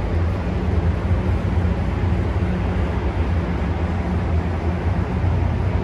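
Steady low mechanical hum over a haze of background noise, unchanging, with no distinct events.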